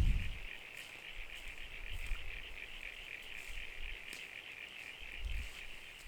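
A steady, high-pitched chorus of calling insects and frogs in the bush at dusk. Brief low wind rumbles on the microphone come about two seconds in and again near the end.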